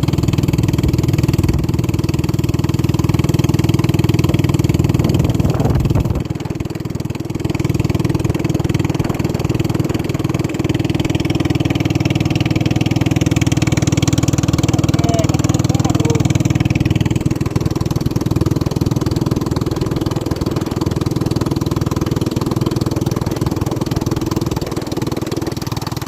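Racing motorboat engine running steadily at high power, with a brief dip in level about six seconds in.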